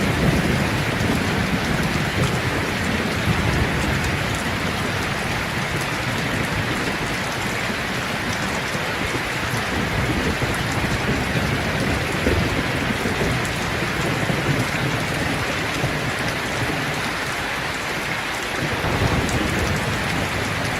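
Steady heavy rain pouring down, with a low rumble of thunder dying away in the first second or two.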